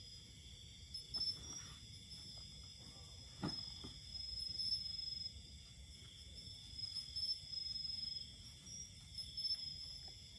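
Insects chirring in a steady, high-pitched chorus, with louder trills coming and going, and a single knock about three and a half seconds in.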